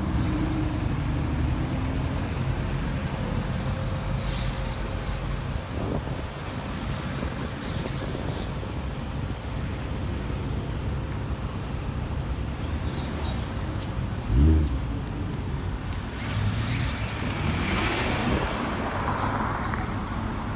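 Car engines running amid road traffic, with a short loud burst of engine noise about fourteen seconds in and a car passing near the end.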